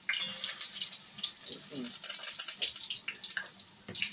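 Green plantain pieces sizzling and crackling as they fry in hot oil in a pot, with a metal utensil scraping and clinking against the pot as they are turned.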